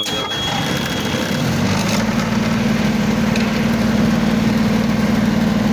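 Truck refrigeration unit starting up and settling into a steady running hum, its fan motor working again after a blown fan fuse was replaced. A steady high-pitched alarm tone stops about a second and a half in.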